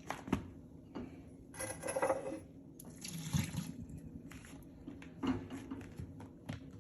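Hand washing dishes at a sink: water splashing in two short spells, with a few sharp clinks of dishes.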